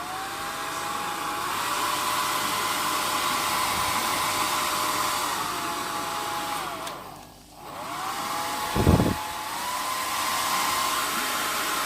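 Hair dryer running, most likely being tried out after a repair of its cut cord: a steady rush of air under a motor whine. About seven seconds in, the motor winds down almost to nothing, then speeds back up, followed by a brief low thump, the loudest moment.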